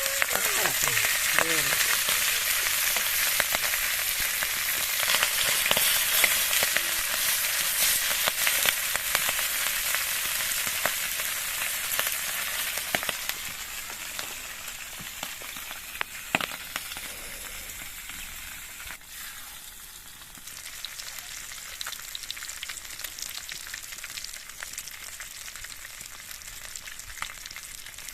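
Food frying in hot oil in a pan: a steady sizzle with fine crackling, loud at first and settling to a quieter sizzle about halfway through.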